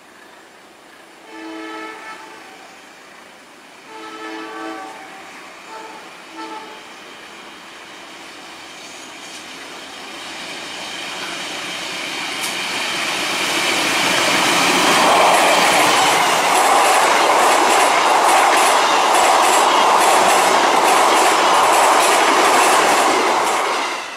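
KAI passenger train's diesel locomotive sounding its multi-tone horn: two long blasts and then two short toots. The train's rumble and wheel clatter then build steadily as it approaches and passes close by, loudest near the end before cutting away.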